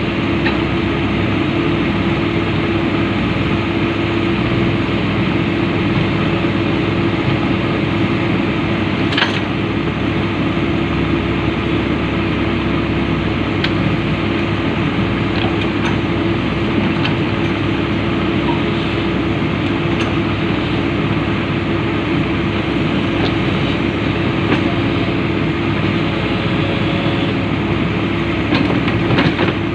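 Komatsu PC200 excavator's diesel engine running steadily with a constant hum, with a few faint metallic clicks.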